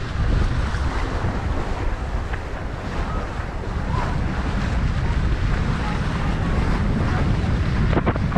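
Wind buffeting the microphone over the rush of sea water along the hull of a sailing boat under way, with a couple of sharp knocks near the end.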